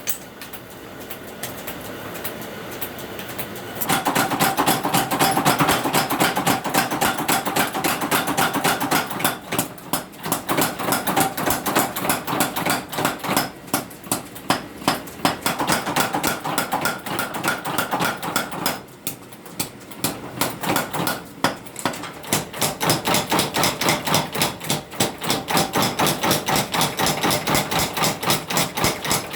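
Steel being forged for a sickle blade: a fast, regular run of hammer blows on hot metal over an anvil, with a ringing tone. The blows are lighter at first and grow loud a few seconds in. They pause briefly about two-thirds of the way through, then carry on.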